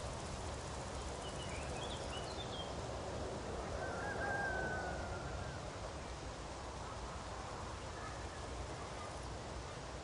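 Steady outdoor background noise with a few bird calls: short chirps about two seconds in, and a longer drawn call about four seconds in that is the loudest moment.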